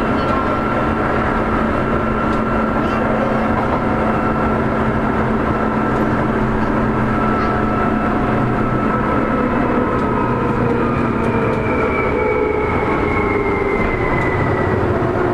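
Seibu 2000-series electric commuter train running, heard aboard: a steady rumble of wheels on rail with motor and gear whine. From about ten seconds in the whine falls in pitch as the train slows.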